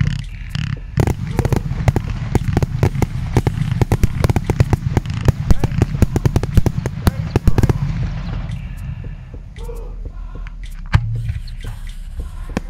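Consumer firework battery going off: a dense, rapid run of pops and crackles that thins to scattered pops after about eight seconds.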